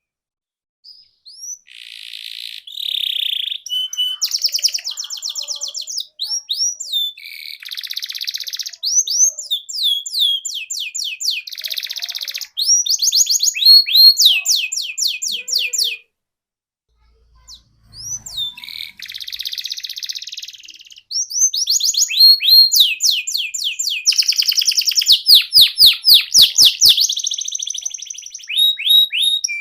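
Domestic canary singing a long, varied song of fast trills and rapid runs of repeated high, downward-sweeping notes, phrase after phrase, with a pause of about two seconds midway.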